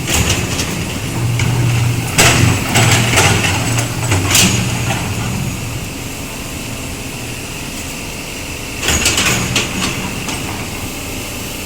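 Backhoe excavator's diesel engine running steadily, with bursts of clatter from the digging work near the start, again from about two to four and a half seconds in, and once more near nine seconds.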